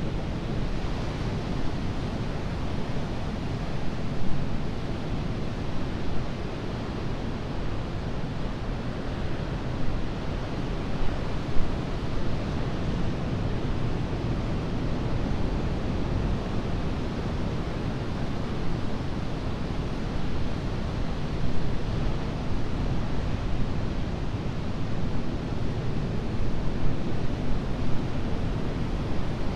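Ocean surf: a continuous wash of breaking waves, swelling slightly now and then.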